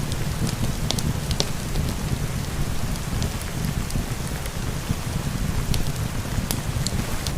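Steady rain, a continuous even hiss with a low rumble, mixed with scattered sharp crackles from a wood fire burning in a fireplace.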